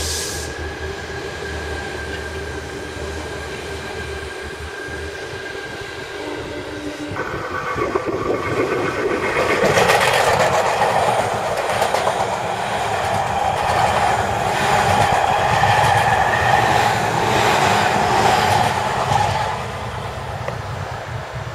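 Seibu Railway electric train on the move, wheels clacking over the rail joints. It grows louder from about eight seconds in and eases off near the end.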